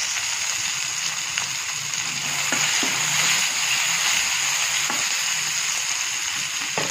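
Chopped tomatoes sizzling steadily in hot oil in a frying pan, with a few light clicks of the metal spatula against the pan as they are stirred.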